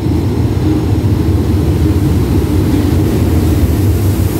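Diesel locomotive of a passenger train running slowly past at close range as it pulls into the station, a steady low rumble. Its coaches follow, with wheel and rail hiss growing in the last second.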